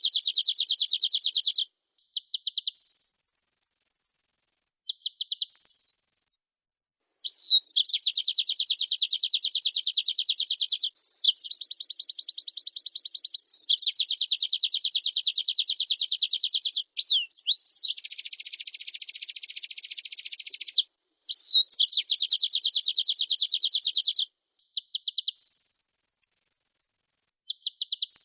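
White-eye (pleci) singing a fast, full song: rapid high-pitched chattering trills in bursts of a few seconds, some of them very high and thin, with short silent breaks between.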